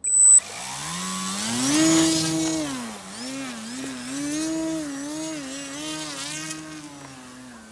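Electric brushless motor and propeller of an E-flite Timber X RC plane whining, its pitch rising, holding and falling again and again as the throttle is worked. A brief loud burst comes right at the start.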